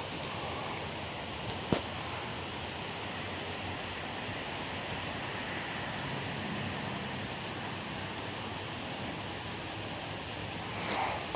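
Steady outdoor background noise, an even hiss like wind or distant traffic, with a single sharp click about two seconds in and a brief rustle near the end.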